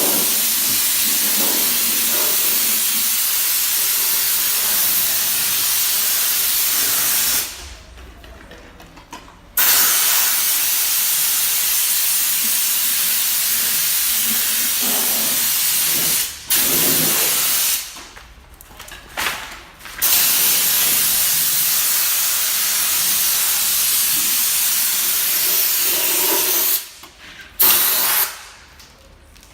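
Compressed air hissing from an air tool in long, steady bursts, each stopping abruptly, with short quiet gaps between them about 8, 16, 18 and 27 seconds in.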